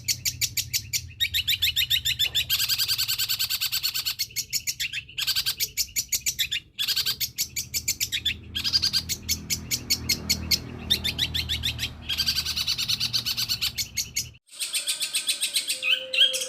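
Long-tailed shrike (cendet) singing a long, rapid chattering song of fast repeated high notes in phrases with short breaks, its song filled with mimicked calls of other birds such as sparrows. About 14.5 s in the song and a low background hum cut off abruptly, and a different stretch of song begins.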